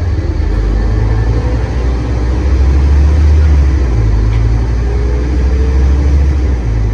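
Scania N230UD double-decker bus engine running under way, heard from on board, a deep steady drone whose pitch rises and falls a few times as the bus drives.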